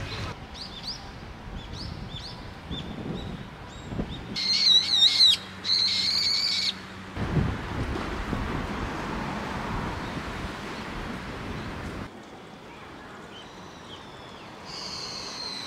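Brown-eared bulbul calling: two loud, shrill, wavering calls of about a second each, starting about four seconds in, with a shorter similar call near the end. Light high chirps of small birds come before them over the outdoor background.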